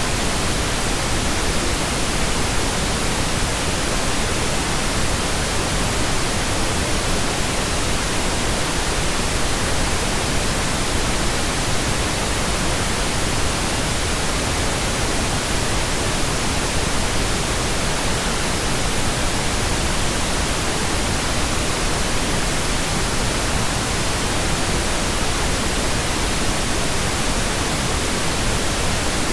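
Steady, unchanging pink noise generated in Audacity: an even hiss at a constant level.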